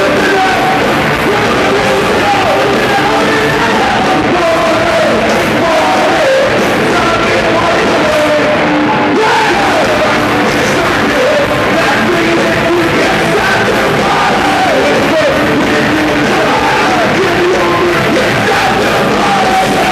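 Live rock band playing loudly, with shouted, yelled singing over distorted guitars and drums; the mix is dense and steady, as heard in a large venue.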